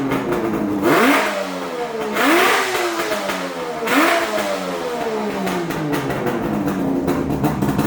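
Suzuki GT750 B4's 750 cc two-stroke triple, through a Zenshin 3-into-1 collector exhaust, blipped three times in free revs. Each rev rises sharply and sinks slowly back down, then the engine settles to a steady idle.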